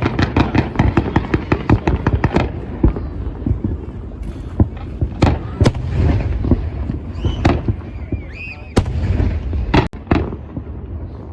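New Year's Eve fireworks: a rapid string of crackling bangs for the first two seconds or so, then scattered sharp bangs over a continuous low rumble of fireworks going off all around. A few short whistles come in just past the middle.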